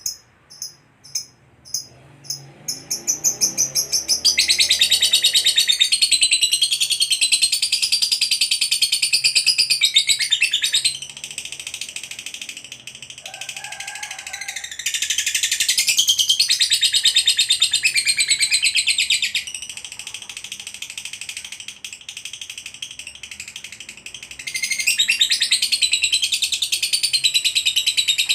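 Lovebird singing its long chattering song ('ngekek panjang'): high-pitched rapid trilling. Spaced chirps at the start quicken into continuous runs, with three loud stretches and softer chatter in between, and the song cuts off abruptly at the end.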